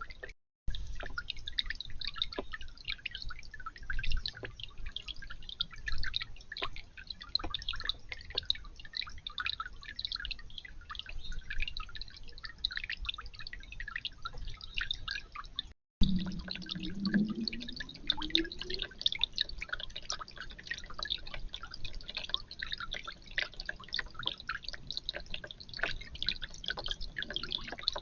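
Water dripping and trickling from a garden fountain: a dense, steady patter of drops.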